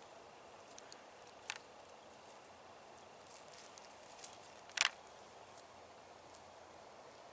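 Faint outdoor background with a few light ticks and two short sharp clicks, the louder one about five seconds in.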